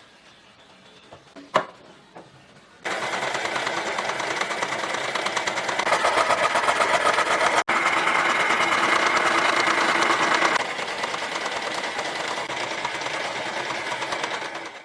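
A click, then an electric power tool starts about three seconds in and runs steadily with a fast buzzing ripple. It is louder in the middle stretch, then eases back a little.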